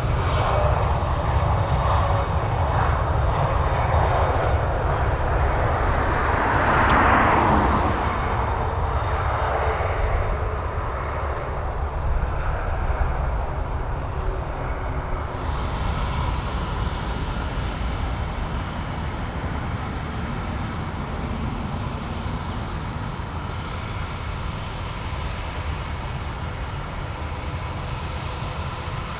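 Jet airliner engines passing close, with a steady rumble and a thin whine. It is loudest about seven seconds in, then slowly fades.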